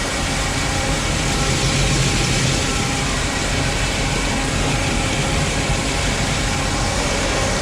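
Steady machinery noise with a constant hiss and low hum: a grain truck's engine running while corn pours out of its raised dump bed into the dryer's pit, with the grain elevator running.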